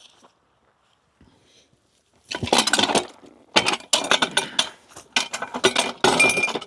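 Metal parts of a Perrot irrigation pipe coupling clanking, clinking and scraping as it is worked together by hand. The dense irregular clatter starts a couple of seconds in, with a short high squeak near the end.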